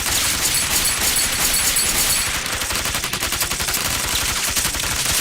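Sustained rapid gunfire, many shots a second without a pause: a burst of fire into the tunnel entrance.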